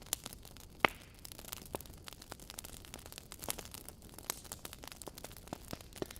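Wood fire crackling in a fireplace: irregular sharp pops and snaps over a faint hiss, with one louder pop about a second in.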